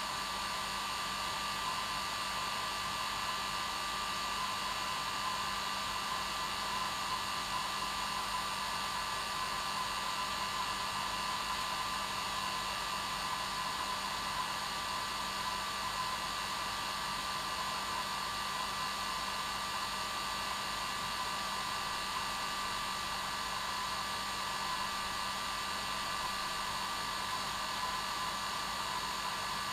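Hair dryer running steadily: a constant rushing hiss with a steady whine from its fan motor, unchanging throughout.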